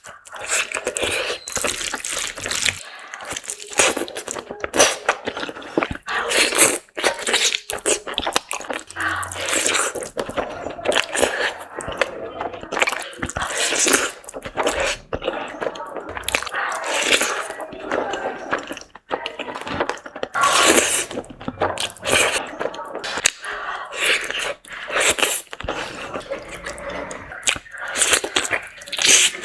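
Close-miked eating sounds: wet chewing and smacking with crunches, a dense run of short irregular clicks.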